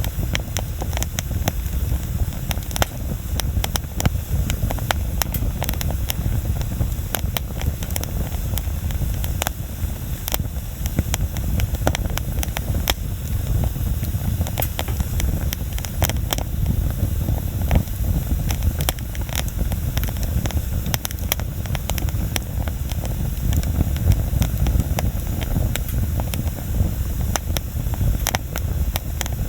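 Wood bonfire crackling, with many sharp snaps and pops at irregular moments over a steady low rumble.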